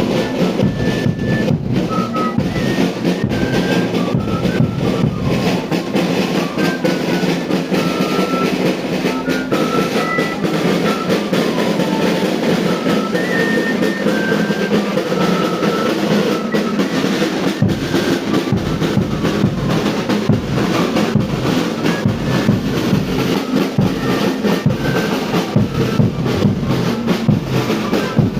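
Live band of pesebre musicians playing: steady drumming with snare and bass drum under a high stepping melody.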